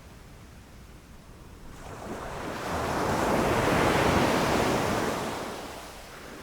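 Ocean waves breaking on a shore: a quiet lull, then one wave rushes in and crashes about two seconds in, swelling to a peak and washing away.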